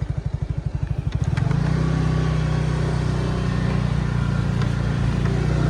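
Motorcycle engine idling with an even putter, then picking up revs a little over a second in and running steadily at the higher note.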